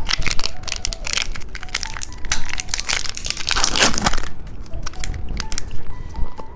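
Close-up crinkling and crushing of plastic candy packaging, a rapid run of crackles with a denser, louder burst about three and a half seconds in.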